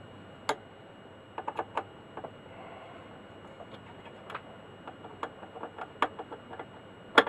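Small sharp clicks and taps of a screwdriver and screw as an earth wire is screwed down onto the record player deck, coming irregularly, with the loudest click near the end.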